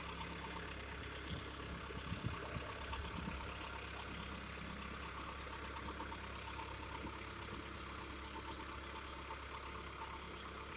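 An engine idling steadily and faintly in the background, with a few light knocks about two to three seconds in.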